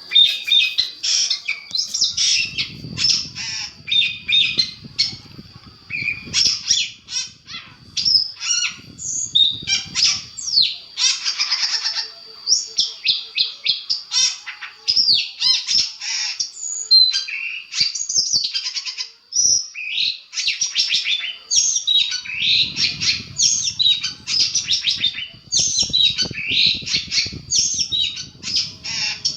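Long-tailed shrike (cendet) singing a fast, nearly continuous stream of harsh chattering and squawking notes mixed with short whistles. This is a master song recording of the kind used to train caged birds. A low rumble sits under the song twice.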